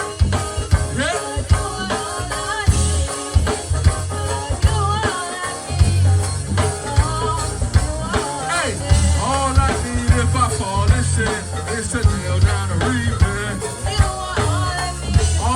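Live gospel band playing an upbeat groove: drum kit and heavy bass under a wavering melody line, with drum hits landing at a steady beat.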